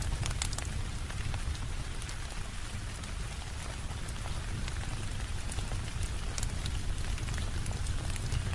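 Steady rainfall with a low rumble underneath, dotted with scattered sharp crackles and pops from a wood fire.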